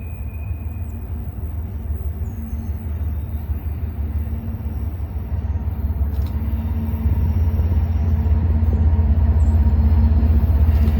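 Diesel freight locomotive running as the train approaches, a low rumble and engine hum growing steadily louder.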